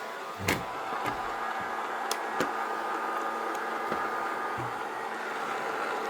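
Robot vacuum cleaner running: a steady motor whine and hum, with a few sharp clicks about half a second and two seconds in.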